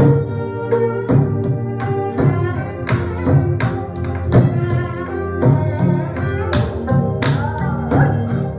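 Korean traditional ensemble music: sharp drum strokes at a steady beat over sustained bowed and plucked string tones, with sori-buk drums, gayageum and ajaeng among the instruments.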